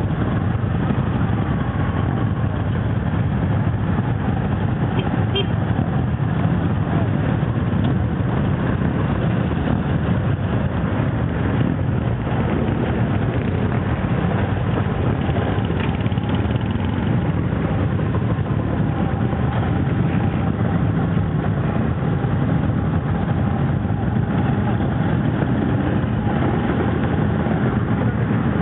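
Old motorcycle engines running steadily, with no break in the sound.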